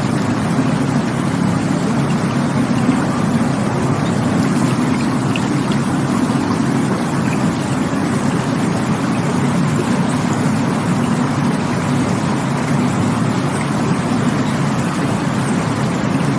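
Rushing water running steadily with a continuous, deep, even rush that doesn't change.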